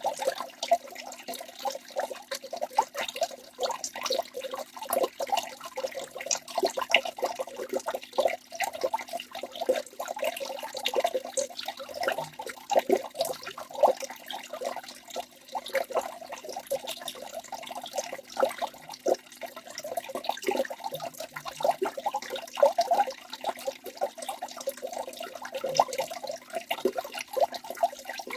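Waterfall running: a continuous, dense patter of splashing and gurgling water, with no let-up.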